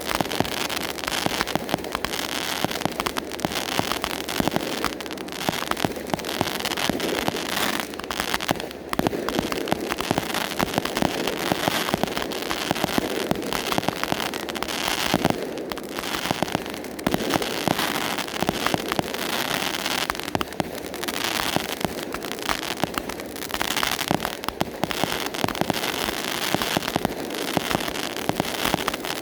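Consumer firework cakes firing: a dense, continuous stream of sharp pops and crackles.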